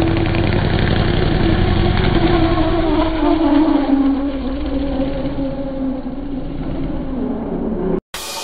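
LS2 V8 engine of a BMW E46 M3 drift car running hard under throttle through a drift, its note sliding slowly lower over the middle seconds. The sound cuts off abruptly near the end.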